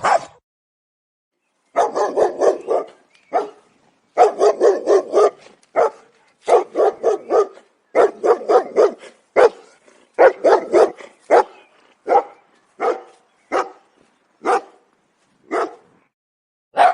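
Dog barking: rapid runs of barks in several bursts, then single barks about a second apart.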